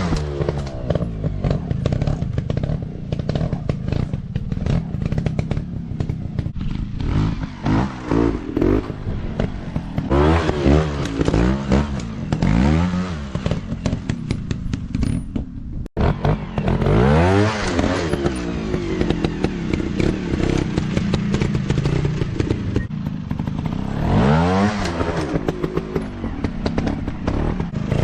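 Dirt bike engines revving up and down again and again, the pitch rising and falling with each burst of throttle. The sound cuts out for a moment about halfway through.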